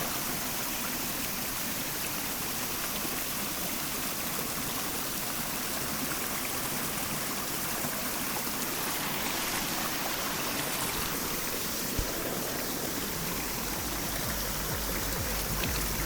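Shallow stream (seseragi) babbling steadily over stones. There is a single sharp knock about three-quarters of the way through, and a low rumble joins in near the end.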